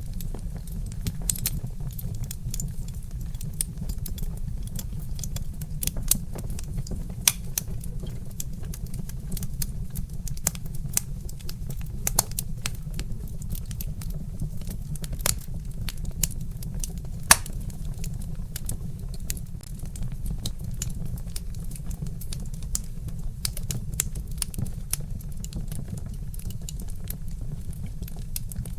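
Wood fire crackling with irregular sharp pops and snaps over a steady low rumble, with one louder pop a little past the middle.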